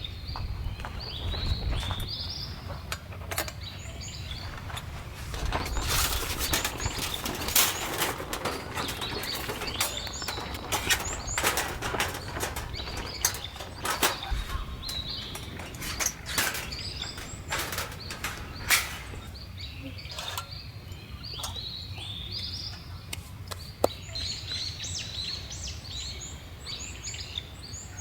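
Small birds chirping in short repeated calls, with a run of sharp clicks and knocks through the middle.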